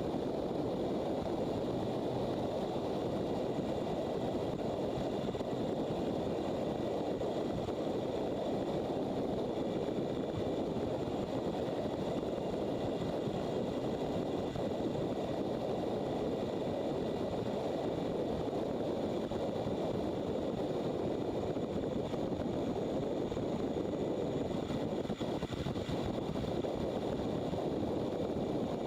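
Motorcycle riding at a steady speed: constant wind rush over the microphone, with faint engine whine underneath.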